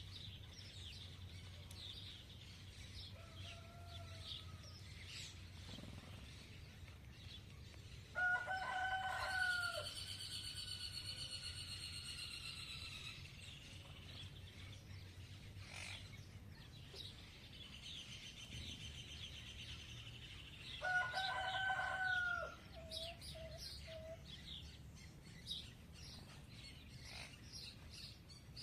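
A rooster crows twice, once about eight seconds in with a long trailing end and again about twenty-one seconds in, while small birds chirp throughout.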